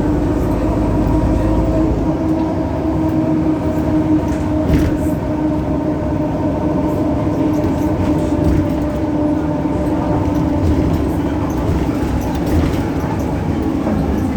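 Solaris Urbino 18 bus with its DAF PR265 diesel engine and ZF Ecolife automatic gearbox under way: a steady rumble carrying a loud, steady whine, which the uploader puts down to belt noise from the DAF engine. The deepest rumble drops away about two seconds in.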